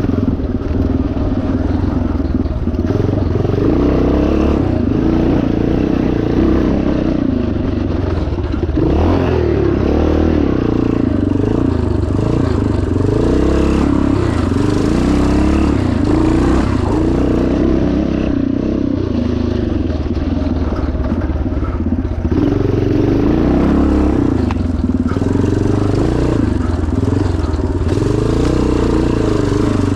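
1977 Yamaha TT500's single-cylinder four-stroke engine running hard, its pitch repeatedly rising and falling as the throttle is opened and closed.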